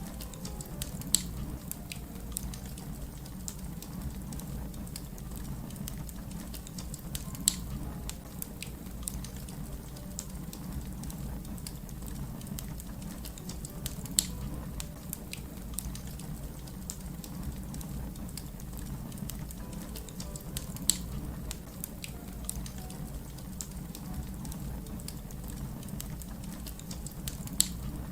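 Fire crackling: a steady low rumble with frequent small snaps and about five sharp louder pops, roughly one every six or seven seconds.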